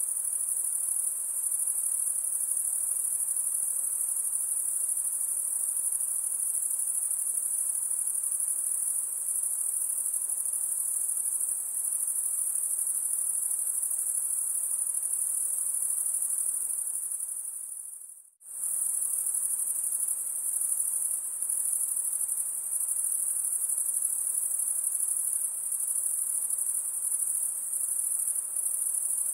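A steady, high-pitched chorus of insects shrilling continuously. It fades away briefly about eighteen seconds in, then comes straight back.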